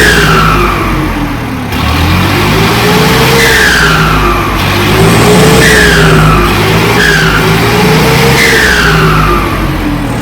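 Turbocharged tractor diesel engine being revved repeatedly, about five times, with the turbo's high whistle falling in pitch as each rev dies away.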